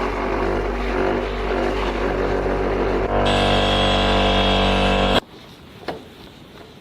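Electric car paint polisher running with a steady hum, stepping up to a higher, louder speed about three seconds in, then stopping abruptly about five seconds in.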